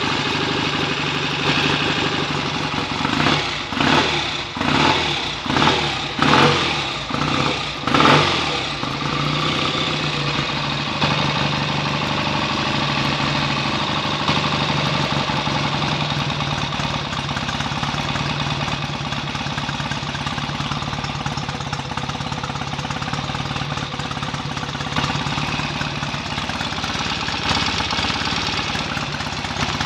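A BSA A65 650 cc parallel-twin four-stroke engine runs on its first start-up after a full rebuild. The throttle is blipped in a quick string of short revs in the first third, then the engine settles to a steady idle.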